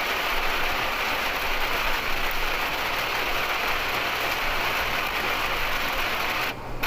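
Heavy rain on a moving motorhome, heard from inside the cab: a steady hiss of rain and wet road noise over the low run of the engine. The hiss drops away briefly near the end.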